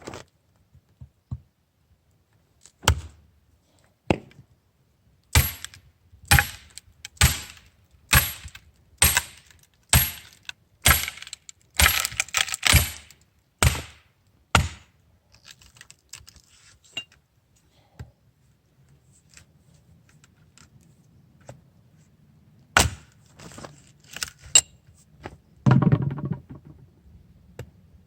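A series of sharp knocks, about one a second for some ten seconds, several with a thin metallic ring, then a quieter stretch and a few more knocks near the end.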